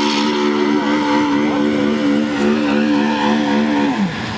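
ATV engine held at steady high revs, dropping off sharply near the end.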